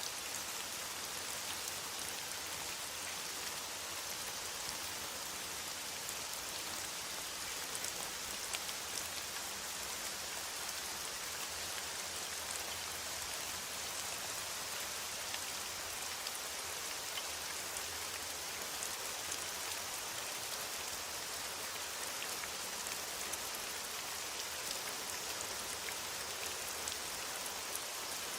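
Steady rain falling in a forest, an even hiss with many small drop ticks throughout.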